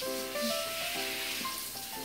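Handheld shower head spraying water over a dog's coat, a steady hiss, under background music with a light melody of held notes.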